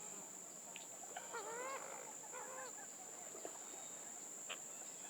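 Steady high-pitched drone of insects such as crickets, with a few short up-and-down bird calls about a second and a half in.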